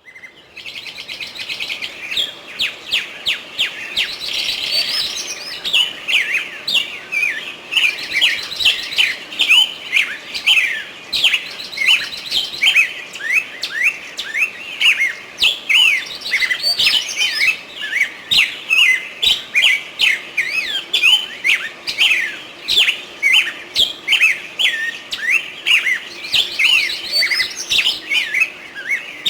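Small birds chirping, a dense, continuous chatter of short rising and falling chirps from several birds at once.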